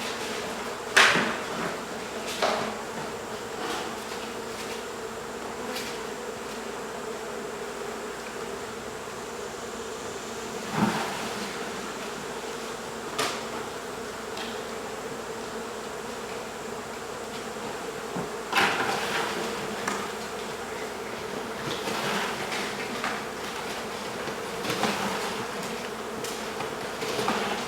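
Honey bee colony buzzing steadily, a swarm of bees roused during a hive cut-out from a wall. Sharp knocks of work on the hive sound through it every few seconds, the loudest about a second in.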